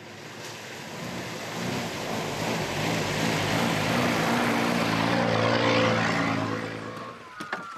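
Motor vehicle engine running, growing louder as it comes close, with its pitch stepping up and down, then fading away near the end.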